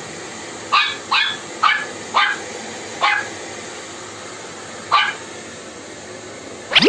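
Small Shih Tzu dog barking: about six sharp, high barks, close together at first, then more spaced out. A quick rising sound follows near the end.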